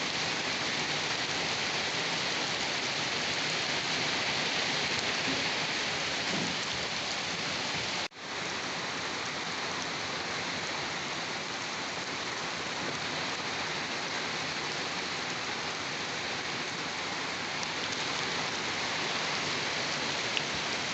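Steady rain falling, an even dense hiss. About eight seconds in it cuts out for an instant and fades straight back in.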